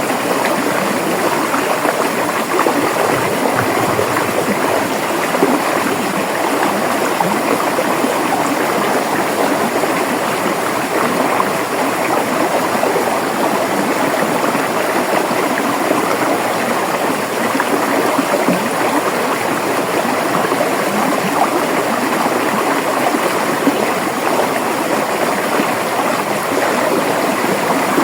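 A river flowing over rocks, a steady rushing and gurgling of water.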